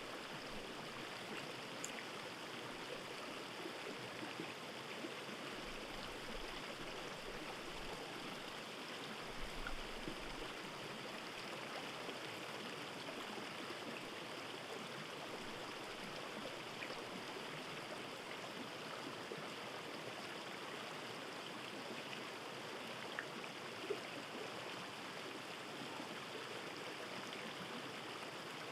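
Steady running water of a stream, an even rush with a few faint clicks.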